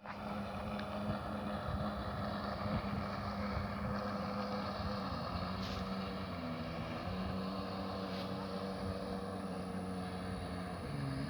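An engine running steadily, its pitch shifting slightly a few times, with wind noise on the microphone.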